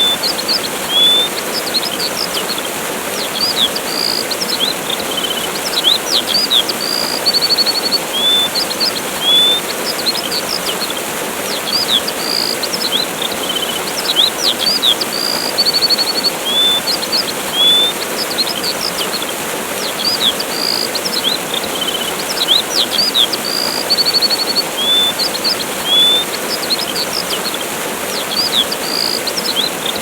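Steady rushing of a waterfall with small birds chirping over it: quick trills, short rising whistles and sharp downward notes, repeating throughout.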